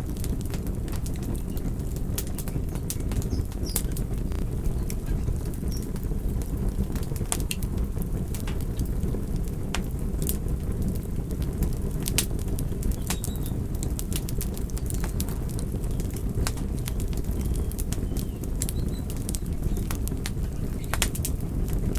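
Campfire burning: a steady low rush of flame with sharp crackles and pops coming irregularly, about two a second.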